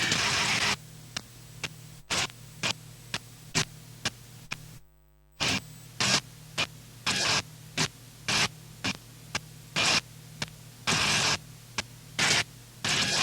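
Noise music: a steady electrical hum with short, irregular bursts of hissing static cutting in and out, after a loud dense noise that stops abruptly just under a second in. The whole sound drops out briefly about five seconds in.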